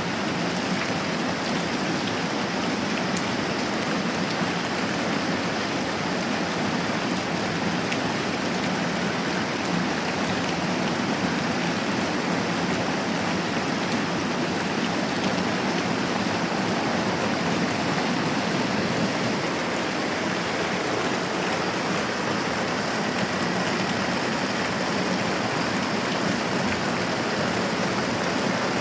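Moderate rain falling steadily, an even hiss with faint scattered drop ticks.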